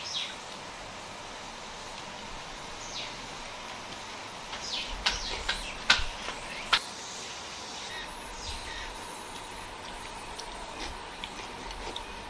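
Birds chirping, with short calls that fall in pitch, scattered throughout. A few sharp clicks come about five to seven seconds in, the loudest near six seconds.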